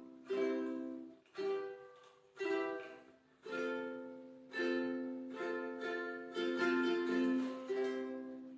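Music: chords strummed on an acoustic plucked-string instrument, about one strum a second, each ringing out and fading before the next.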